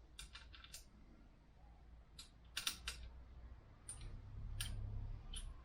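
Scattered small metallic clicks and taps as a screw is handled and tried in the threaded hole left by a broken bolt on a motorcycle frame, with a faint low hum near the end.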